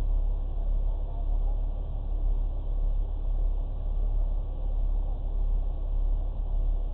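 Car engine idling steadily, a constant low rumble heard from inside the car's cabin.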